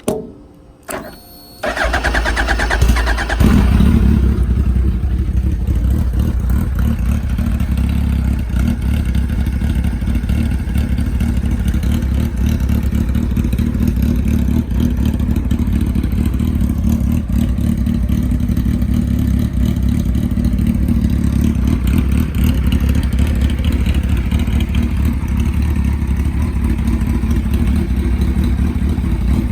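Gen 1 2006 Suzuki Hayabusa's inline-four with a shorty exhaust on a cold start: two short clicks, then the starter cranks for about a second and a half, the engine catches and idles steadily.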